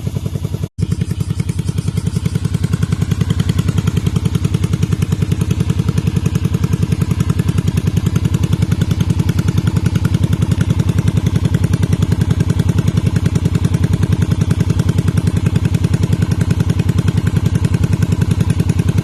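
Yamaha Virago 250 (XV250) V-twin engine idling steadily through a custom muffler, its exhaust pulses even and regular. The sound cuts out briefly just under a second in.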